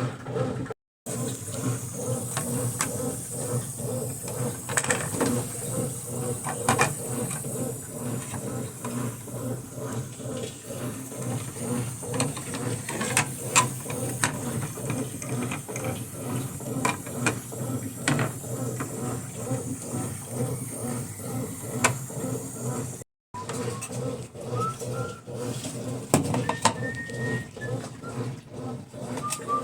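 Brastemp washing machine running: a steady mechanical hum with a fine even pulse and a hiss of water, with scattered clicks. Pigeons coo in the last few seconds.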